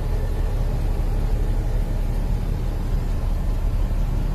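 Toyota Land Cruiser FJ40's 2F petrol inline-six engine running steadily with a low rumble, heard from inside the cabin.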